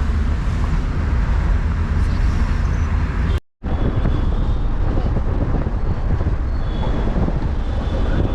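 Road noise inside a moving taxi: a steady, deep rumble of engine, tyres and traffic that breaks off for a moment about three and a half seconds in.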